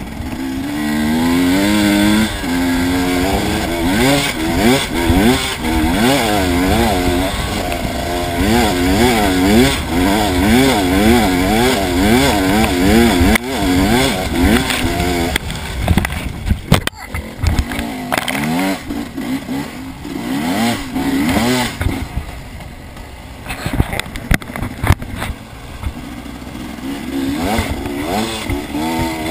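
Dirt bike engine ridden hard, revving up and falling back again and again, roughly once a second, through the first half. After a sudden brief drop it runs more unevenly, then picks up again near the end.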